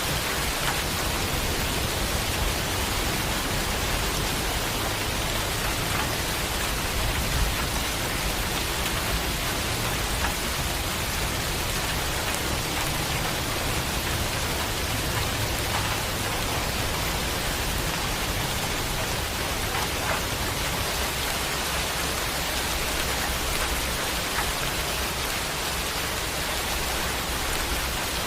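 Steady heavy rain: an even hiss of falling rain with scattered drops striking a surface, over a low rumble that eases off in the second half.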